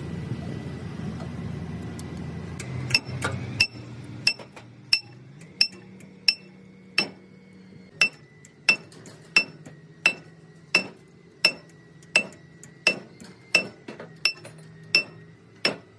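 A hammer striking steel over and over at a steady pace, about three blows every two seconds, each with a bright metallic ring; the hammering starts about three seconds in. For the first few seconds a low engine hum runs under it and dies away.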